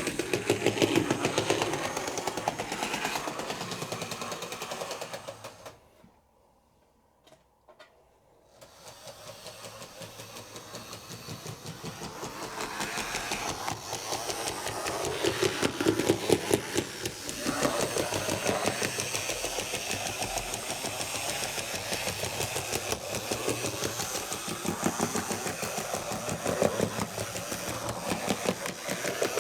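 Small electric motor and gears of an HO scale model of NS locomotive 362 running with a rapid rattling buzz, stopping about six seconds in and starting again roughly two and a half seconds later. The owner thinks the motor does not sit properly on its gear.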